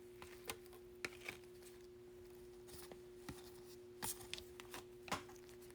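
Faint clicks and light taps of trading cards and their plastic packaging being handled, over a steady faint hum.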